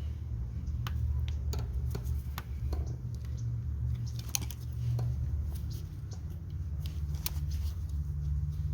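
Scattered small clicks and taps of hands working a motorcycle's front brake line and its fittings loose, over a steady low hum.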